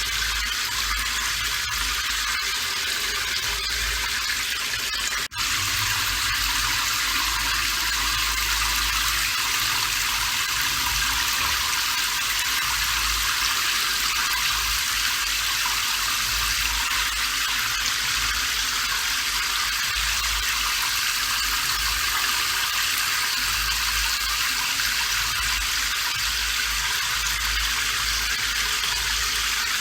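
Steady rain: an even hiss of falling rain, with a very short dip in level about five seconds in.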